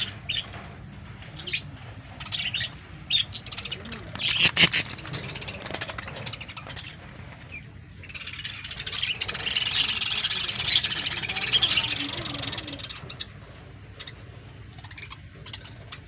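Birds chirping in short calls, swelling into a dense chattering chorus from about eight to thirteen seconds in, then thinning to scattered chirps.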